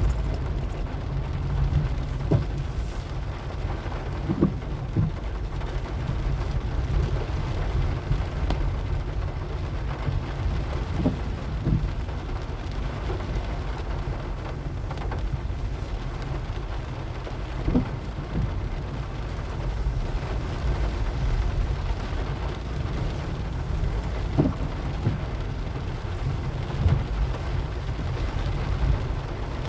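Car driving in the rain on rough, sandy wet streets: a steady low rumble of engine and road under an even rain hiss, with short thumps every few seconds.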